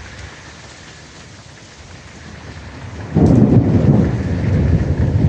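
Steady rain falling, then about three seconds in a loud, low thunder rumble breaks in suddenly and keeps going.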